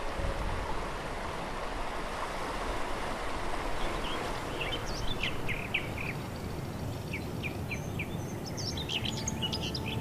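Birds chirping in short, quick calls from about four seconds in, busier near the end, over a steady outdoor background rush.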